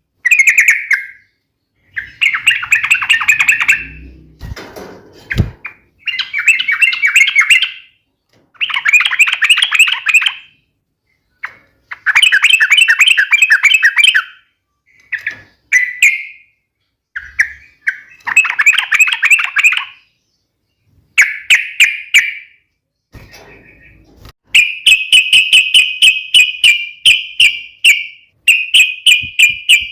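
Yellow-vented bulbul (trucuk) singing its sharp fighting song: fast rolling chatters in bursts of one to two seconds with short gaps, running into a longer, rapid, even trill near the end.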